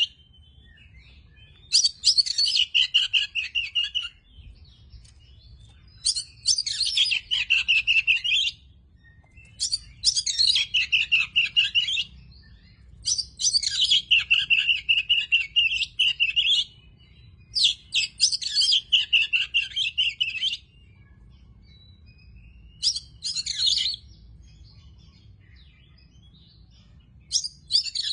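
Oriental magpie-robin singing in about seven bursts of rapid, varied high notes, each a second to three seconds long, with short pauses between them.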